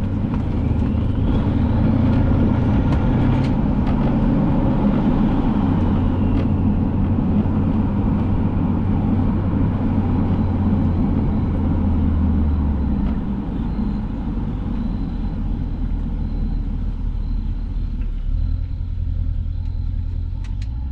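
2015 Mercedes-Benz S550's twin-turbo V8 with the exhaust resonators deleted, running as the car is driven: a steady, deep exhaust drone that eases off slightly about two-thirds of the way through.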